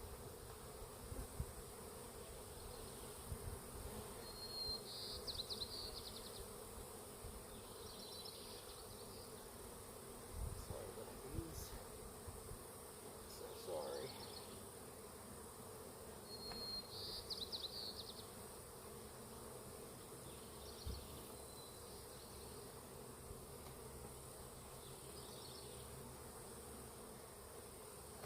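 Honeybees buzzing in a steady hum around a disturbed colony. A short high chirp repeats every few seconds, with a few low knocks between.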